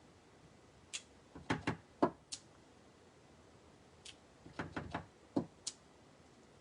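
Clear photopolymer stamp being tapped on an ink pad and pressed onto cardstock: two clusters of light taps and clicks, the first about a second in and the second about four seconds in.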